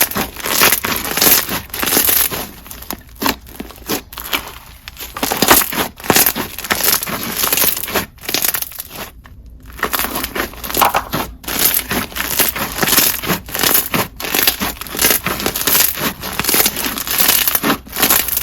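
Clear slushy slime with bingsu beads being squeezed and worked by hand: dense, crunchy crackling in quick irregular bursts, with a short lull around the middle.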